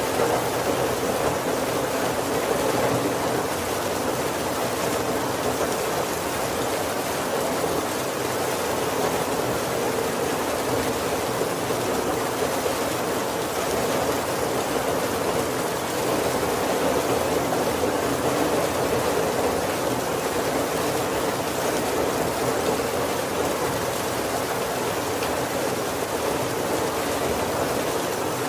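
Steady heavy rain pattering on a roof, an even, unbroken hiss with no thunder.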